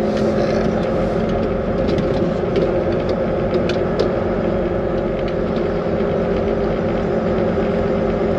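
Volvo VNL 860 semi-truck's diesel engine running steadily at low speed, heard inside the cab, with a few faint clicks and creaks.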